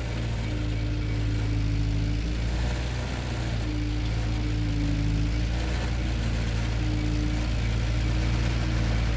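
Ford 9N/2N tractor's four-cylinder flathead engine running steadily while it works a Ferguson cultivator. A higher note in the engine sound swells and fades every couple of seconds.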